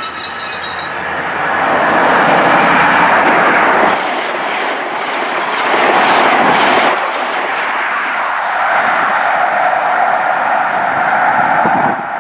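Passenger train passing close at speed: a steady rush of wheel and rail noise with two louder surges, cutting off suddenly near the end.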